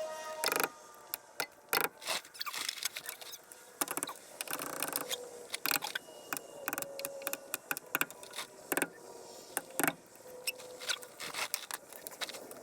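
Hand tools clicking and tapping irregularly on metal as the bolts of a driveshaft U-joint's caps are worked off, with now and then a short squeak.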